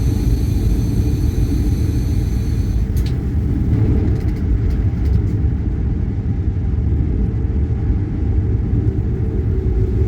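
Train running along the track: a steady low rumble, with a high, thin multi-tone squeal over the first three seconds that stops with a click.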